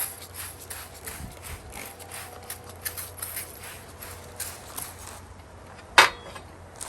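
Trigger spray bottle squirting repeatedly, a few sprays a second, then a single sharp knock about six seconds in.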